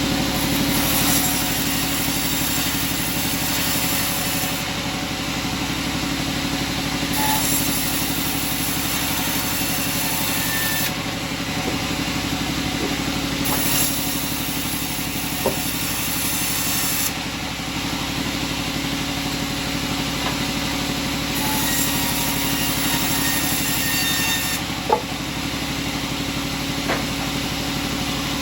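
Sawmill engine running steadily, with a high hiss that comes and goes every few seconds and a few sharp knocks.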